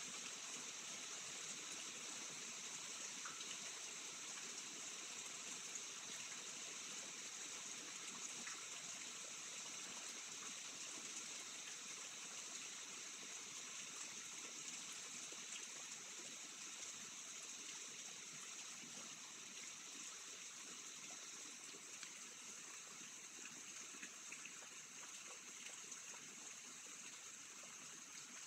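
Steady thunderstorm rain falling: an even hiss with a few faint drip ticks here and there.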